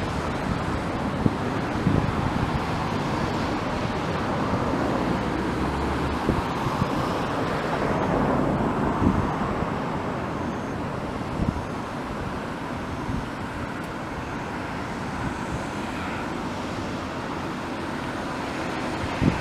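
Steady rushing of a river swollen by typhoon rain, with gusts of wind buffeting the microphone in low thumps.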